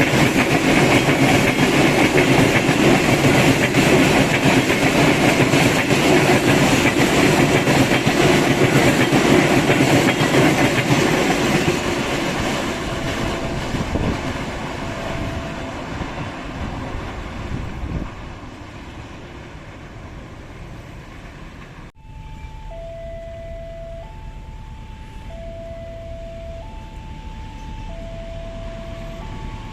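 A train passes close by, its wheels running loudly on the rails, then fades away over several seconds. In the last third, a level-crossing warning alarm sounds, alternating two tones every second or so.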